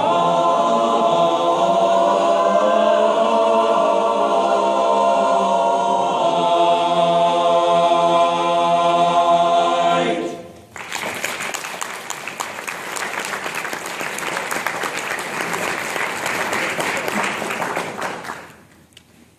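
An a cappella vocal group sings long, sustained chords in close harmony, stopping about ten seconds in. An audience then applauds for about eight seconds before the clapping dies away.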